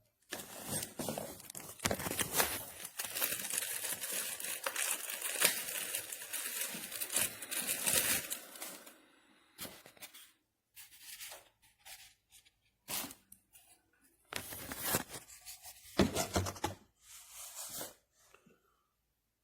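Wrapping being torn and crinkled by hand: about eight seconds of continuous tearing and rustling, then shorter separate bursts of rustling and handling.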